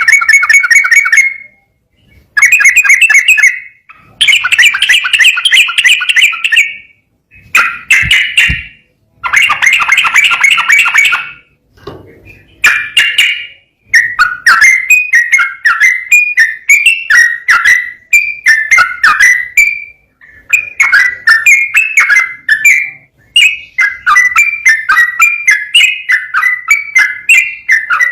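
Yellow-vented bulbul (trucukan) singing loudly in rapid, bubbling phrases of quick repeated notes. At first the phrases come in short bursts with pauses between them; from about halfway they run into a long, almost unbroken stream of fast warbling notes.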